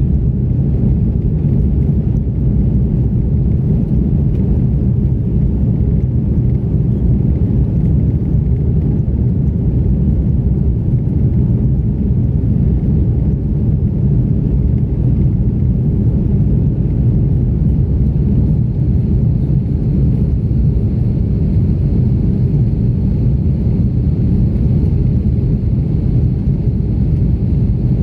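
Steady low rumble inside the cabin of an Airbus A330-300 airliner, its engines and airflow running evenly. A faint thin high whine joins about two-thirds of the way through.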